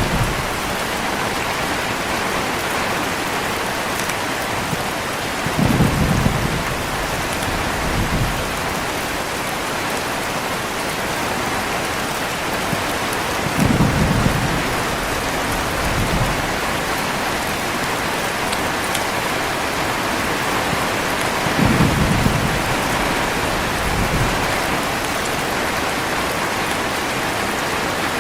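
Heavy steady rain, with low rolls of thunder three times, each followed about two seconds later by a smaller rumble. The rumbles come at even spacing of about eight seconds.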